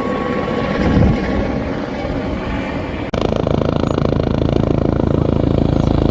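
Helicopter engine and rotor noise, changing abruptly about three seconds in to a steadier, rapidly pulsing sound.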